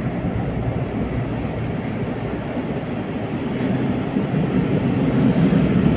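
Madrid Metro train running on the rails, a steady rumble that grows louder over the last couple of seconds.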